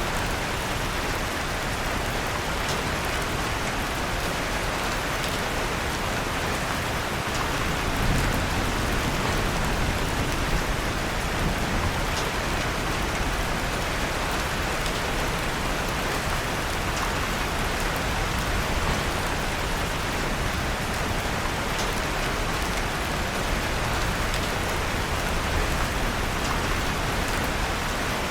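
Steady rain falling, mixed with a fireplace fire crackling softly underneath. A low rumble swells briefly about eight seconds in and again a few seconds later.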